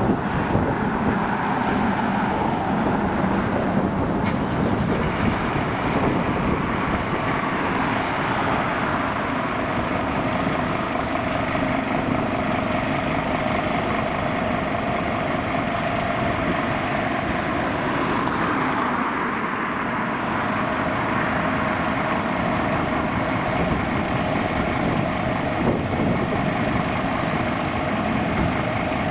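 Steady road-vehicle noise: traffic and engines running, with no siren heard.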